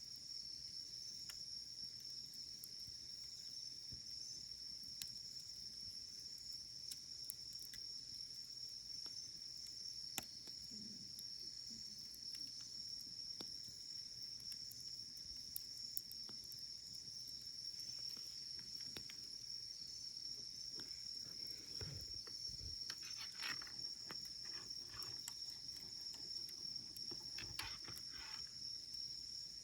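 Faint wood campfire with sparse crackles and snaps, over a steady high-pitched insect trill, likely crickets. The crackling gets busier after about twenty seconds.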